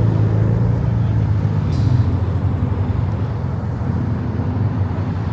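Car engine rumbling at low speed as a car rolls past, a steady low drone that eases slightly after about two seconds.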